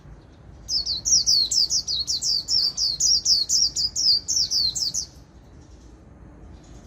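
White-eye singing its 'líu' song: a rapid run of high, falling notes, about four a second, starting about a second in and stopping abruptly some four seconds later.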